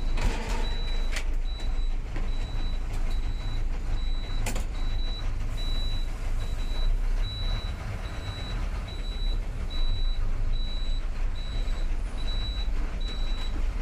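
Truck's diesel engine rumbling steadily while a reversing alarm beeps evenly, a little more than once a second. Two sharp knocks come about one and four and a half seconds in.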